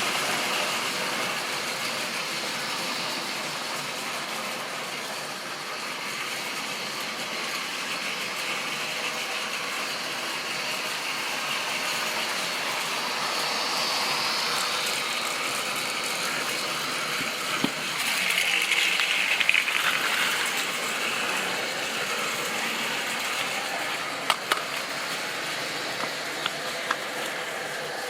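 Model railway train running on its track: a steady mechanical whirr of the motor and the wheels on the rails, swelling slightly now and then, with a few sharp clicks toward the end.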